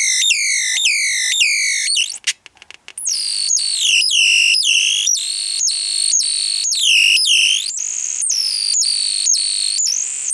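Electronic bird-chirp generator, a transistor oscillator driven by an astable multivibrator, chirping through its speaker: a quick series of downward-gliding whistles, about three a second. About two seconds in it cuts out for a moment with a few crackles, then comes back with longer, lower-pitched chirps whose shape keeps changing.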